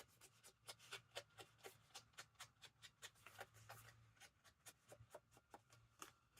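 Faint, rapid light taps and scuffs, about four or five a second, of an inker being dabbed and rubbed along the edges of a paper pocket.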